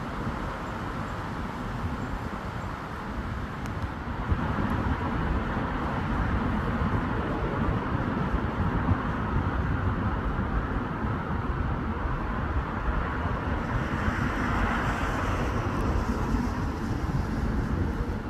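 Road traffic passing, a steady rush of tyre and engine noise. It swells as vehicles go by, about four seconds in and again near the end.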